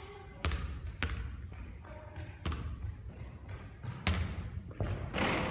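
Basketball bouncing on a court during three-point shooting practice: about five sharp, separate bounces, the one about four seconds in followed by a ringing echo.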